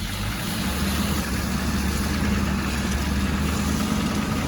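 A vehicle engine running steadily at low revs, its low hum shifting slightly about half a second in and then holding even.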